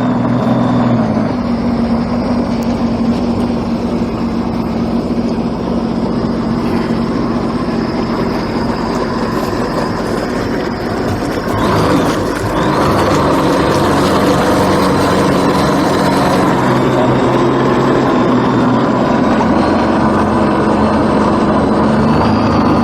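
An engine running steadily, growing louder about halfway through as it works harder.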